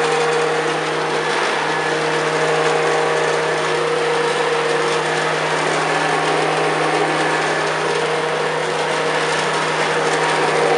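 1980s Hoover Senior U4186 upright vacuum cleaner running steadily on carpet. Its 400-watt motor gives a constant hum and a loud airflow hiss, with a tone that wavers slightly as the load changes.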